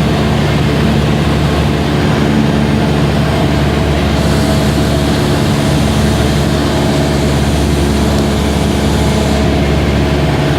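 Light aircraft engine droning steadily, heard from inside the cabin, with a rush of air noise that grows a little hissier in the middle.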